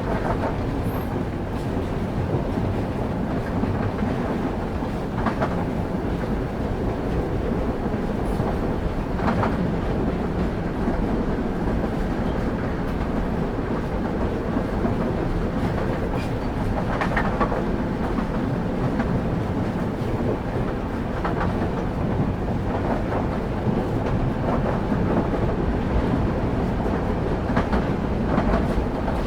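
Steady rumble of a moving train heard from inside a passenger carriage, its wheels clicking over rail joints every few seconds at irregular intervals.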